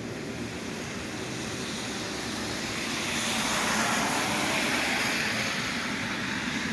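A vehicle passing on a wet road: tyre hiss and engine noise swell to a peak about four seconds in, then fade.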